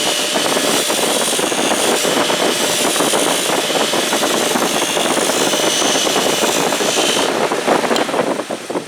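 Bench buffer running with a reciprocating-saw blade held against the spinning buffing wheel, a loud steady rasping scrape as the blade cleans out old rouge and fluffs up the wheel. The scraping stops about seven seconds in, with a few clicks as the sound fades.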